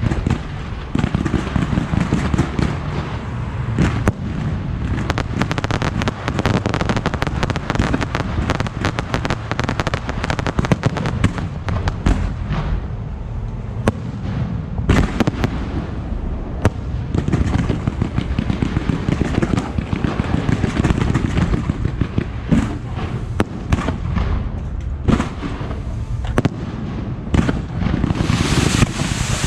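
Fireworks display going off: a dense, continuous run of rapid bangs and crackling, with a brighter hissing crackle near the end.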